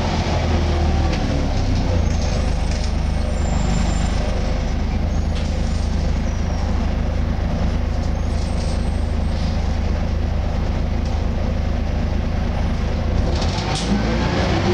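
Volvo B10BLE single-deck bus (Wright Renown body) running along the road, heard from on board as a steady engine and road rumble. A brief hiss comes near the end.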